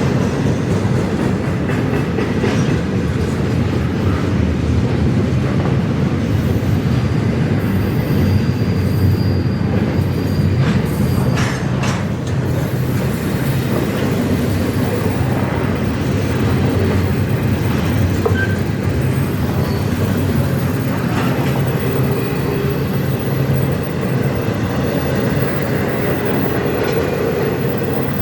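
Freight train cars rolling past close by: a steady rumble of steel wheels on rail, with a brief high wheel squeal about eight seconds in and a few sharp clicks over rail joints a little later.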